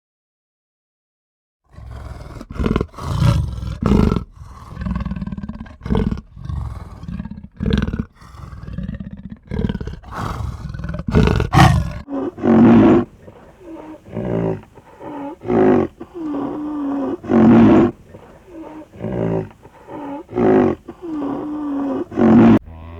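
Lion roaring: after about two seconds of silence, rough irregular calls, then from about halfway a series of shorter calls repeated roughly once a second.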